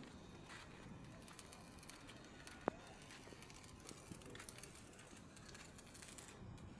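Near silence: faint background noise, with one sharp click about two and a half seconds in.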